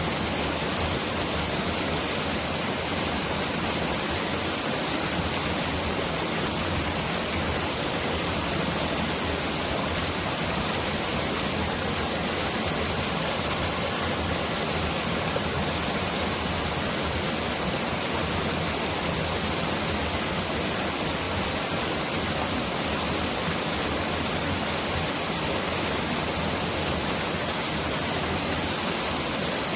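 Mountain valley stream rushing over rocks: a steady, even roar of water, which the uploader likens to heavy rain pouring down.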